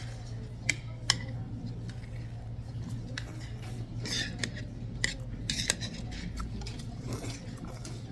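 Eating utensils clinking against dishes during a meal: a few sharp, separate clicks and some softer scraping, over a steady low hum.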